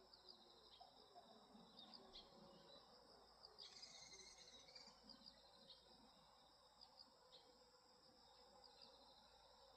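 Faint chorus of grass insects such as crickets: a steady high trill with repeated short chirps over it. A denser, louder stretch of calling comes about four seconds in and lasts about a second.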